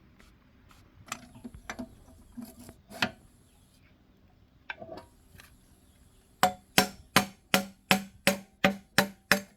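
Tools knocking and clinking during engine repair work, then a run of about nine quick, evenly spaced hammer-like taps, about three a second.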